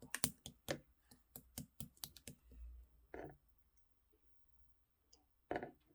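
Clear slime being worked by hand, giving quick sticky clicks and pops in a fast run, then a longer squish about three seconds in and another near the end.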